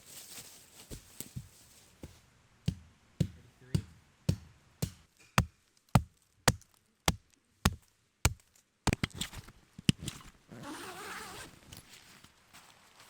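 A rapid series of sharp knocks, about two a second, with an irregular cluster after about nine seconds and a short rustling noise near the end.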